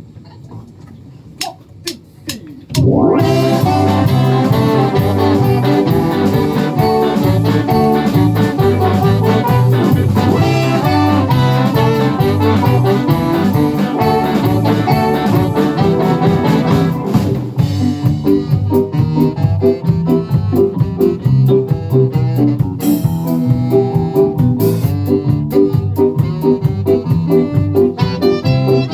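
Live band starting a song, an Ainu dance tune. A few sharp clicks come first, then the full band comes in loudly about three seconds in and plays on, with the arrangement changing about seventeen seconds in.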